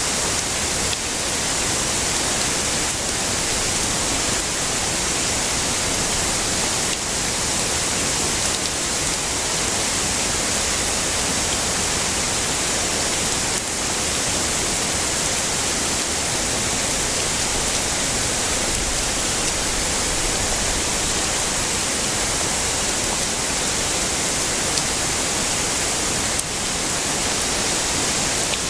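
Heavy rain falling steadily as an even, hissy wash with no thunder.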